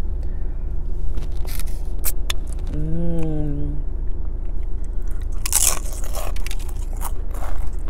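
Crunching and chewing of a tortilla chip loaded with guacamole, close to a lapel mic. The loudest crunch comes about five and a half seconds in, and there is a short hummed "mmm" around three seconds in.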